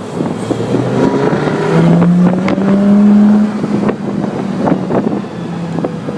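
Sports car engine accelerating hard, its note climbing for about two seconds, then easing off past the middle, with a few short clicks and rattles.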